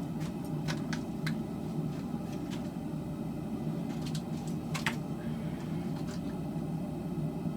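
Propane forge burner running with a steady low rush, with a few light metallic clinks from metal being handled, the loudest about five seconds in.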